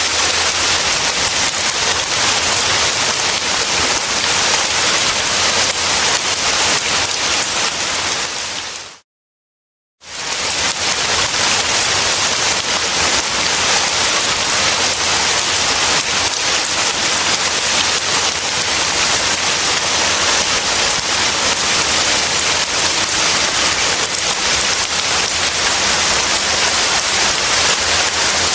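Steady, dense rain falling, an even hiss. About nine seconds in it fades out to a second of complete silence, then fades back in, a seam in the looped recording.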